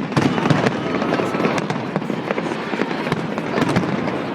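Fireworks display: a dense, continuous crackle of many small pops and bangs.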